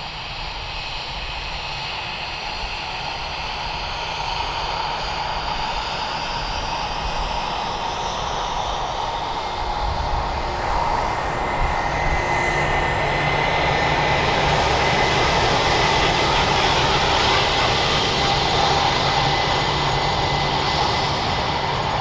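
Airbus A330-300 jet airliner on landing approach, its engines making a steady rushing drone with a high whine that grows gradually louder as it comes closer.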